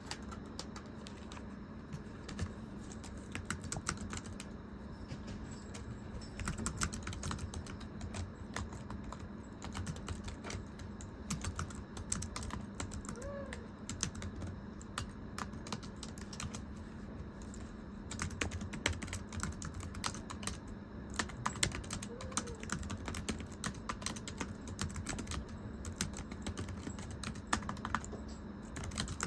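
Typing on a very thin computer keyboard: light, flat tapping keystrokes in quick, irregular runs with brief pauses, over a faint steady low hum.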